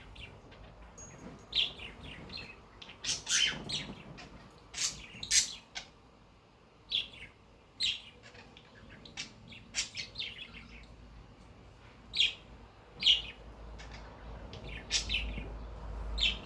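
Cockatiel giving short, sharp chirps at irregular intervals, about one every second or so, some in quick pairs, most dropping in pitch.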